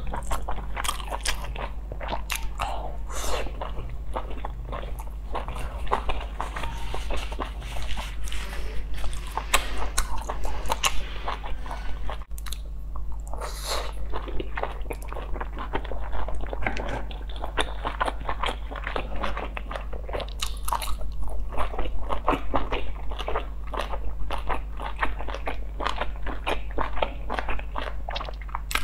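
Close-miked mouth sounds of a person biting into and chewing soft steamed dumplings: a dense, continuous run of small smacks and clicks over a steady low hum.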